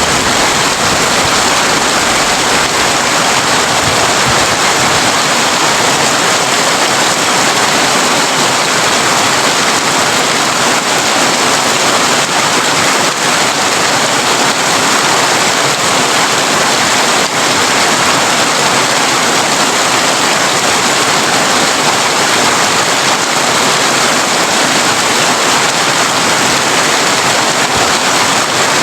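Heavy rain drumming steadily on a tin roof, a dense, even hiss. The last of a low thunder rumble dies away in the first few seconds.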